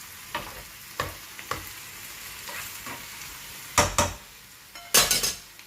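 A utensil stirring chopped tomatoes, onion and garlic in a sizzling frying pan, scraping and knocking against the pan; the loudest knocks come near the end.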